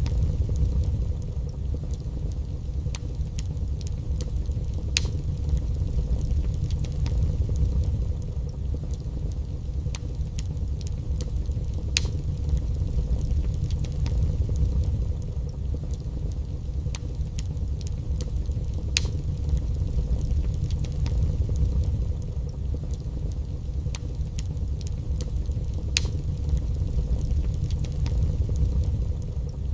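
Fire burning in a fireplace: scattered sharp crackles and pops, a few louder snaps among them, over a steady low rumble.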